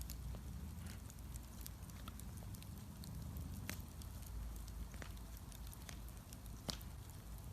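Wood bonfire crackling: a low steady rumble of the flames with scattered sharp pops and snaps, one louder pop near the end.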